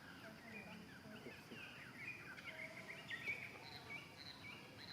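Birds chirping in the background: many short, high calls overlapping continuously.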